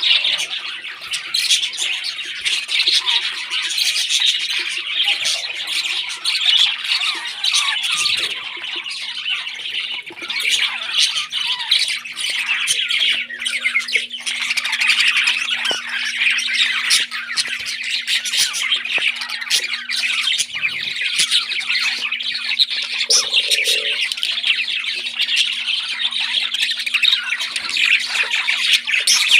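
Parrots squawking and chirping continuously in a dense, raspy chatter, with a faint steady hum underneath.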